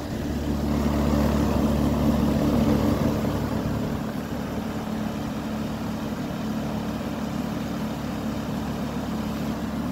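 Outdoor unit of a 2019 Carrier Comfort Series 3-ton heat pump, with its LG scroll compressor and condenser fan, running steadily in heat mode. It is a pretty quiet low hum with several steady tones.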